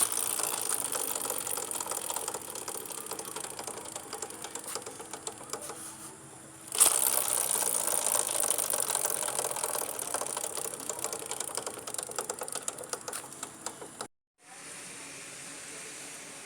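Suzuki Gixxer motorcycle's drive chain knocking: a rapid, rattling mechanical clatter as the chain runs. The clatter is heard in two stretches separated by abrupt cuts, and a quieter, steady running noise follows near the end.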